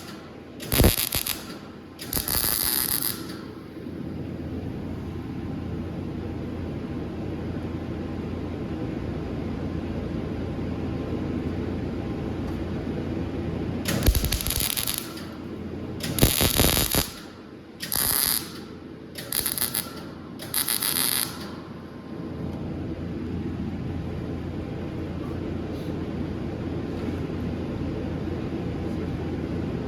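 Stick (arc) welder: the arc crackles in short bursts of about a second each, as short welds are laid on thick rod, twice near the start and then five in quick succession about halfway through. A steady hum from the welding machine sits right beside the microphone throughout.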